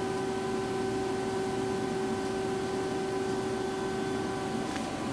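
Lucas horizontal boring mill running idle between operations, a steady machine hum with a constant whine over it, and one faint tick near the end.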